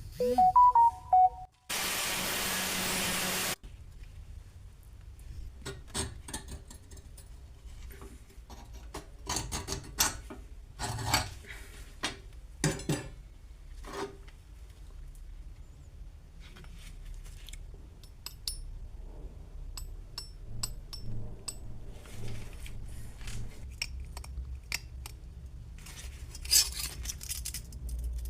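Metal parts and hand tools clinking, tapping and rubbing on a workbench in scattered, irregular knocks. Near the start there are a few short musical notes, then about two seconds of loud, even hiss.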